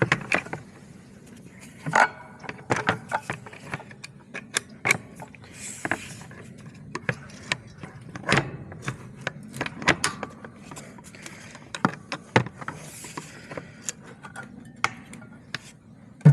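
Irregular sharp clicks, knocks and light clanks of hand work with tools and hardware, some strokes louder than others, over a faint low hum.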